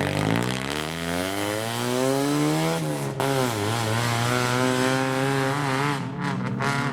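A modified car's engine accelerating away hard, its note climbing for about three seconds, breaking off sharply for an upshift, then pulling up again in the next gear.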